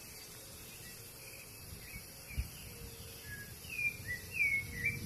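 Birds calling in a run of short, curved chirps that grow louder through the second half, over a steady high hum of insects. A single low thud comes about halfway.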